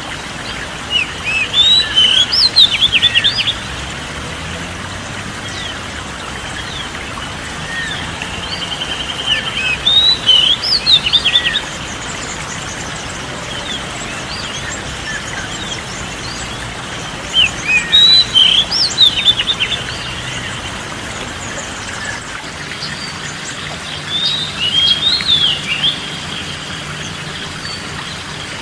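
Oriental magpie-robin (kacer) singing in four short phrases of rapid, varied whistled and chirped notes, one every six to eight seconds, over a steady background hiss.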